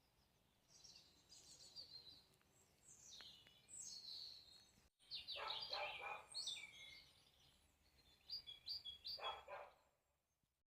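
Faint birdsong outdoors: bursts of high chirps, with louder, lower calls about five seconds in and again near nine seconds.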